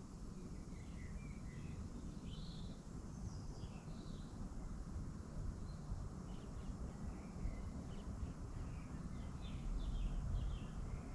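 Small birds chirping in short, scattered calls, more often in the second half, over a steady low rumble.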